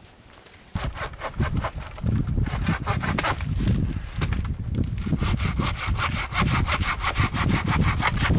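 Hand saw cutting through wood in quick back-and-forth strokes, starting about a second in.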